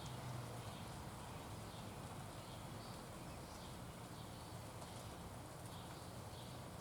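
Faint short bird chirps, repeated about once or twice a second, over a steady low hum and outdoor hiss.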